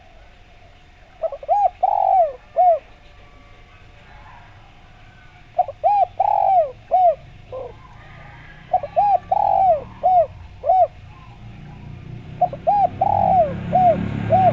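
Spotted dove (derkuku) cooing: four phrases of short, arching coos, each with one longer drawn-out note in the middle. A low rumble grows toward the end.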